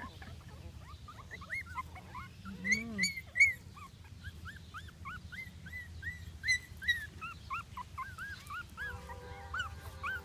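A litter of three-week-old puppies whining, many short high squeaky cries overlapping several times a second, loudest about three seconds in. They are hungry and calling for their mother. A low steady hum sits underneath.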